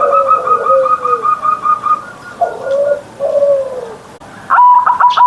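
Zebra dove (perkutut) cooing: short coos that slide down in pitch, over a rapid run of high, even notes. A louder series of sharp repeated notes starts near the end.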